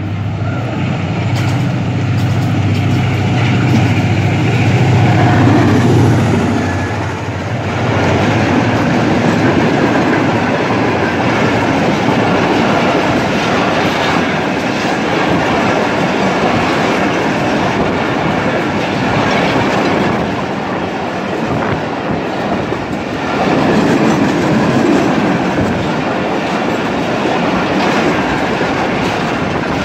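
Pakistan Railways express train passing close by: the diesel locomotive's steady engine drone in the first several seconds, then a long rake of passenger coaches rolling past with a dense, continuous rumble of wheels on rails.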